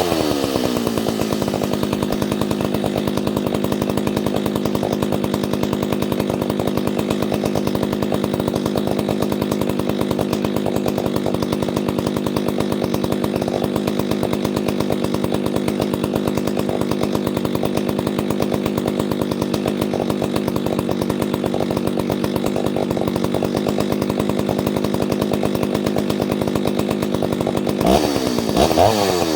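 Ported Solo 670 two-stroke chainsaw engine. A rev falls away at the start, then the saw idles steadily, and it is blipped up and down a few times near the end. It is running on freshly reset carburettor mixture screws, about 1.5 turns out on the low and 1 on the high.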